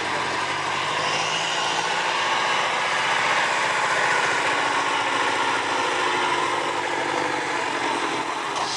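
Off-road trial truck's engine running steadily, its pitch wavering slightly.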